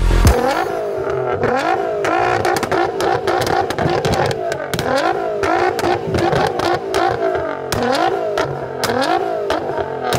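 Nissan R35 GT-R's twin-turbo V6 revved in repeated short blips, about one a second, through a straight-piped exhaust. Sharp exhaust pops and bangs crack between the revs.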